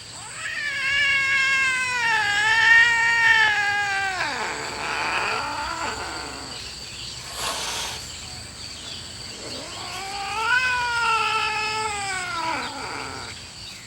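Cats yowling at each other in a territorial standoff: two long, drawn-out caterwauls, the first lasting about four seconds and falling in pitch at its end, the second coming about ten seconds in. These are threat yowls of rival cats squaring off.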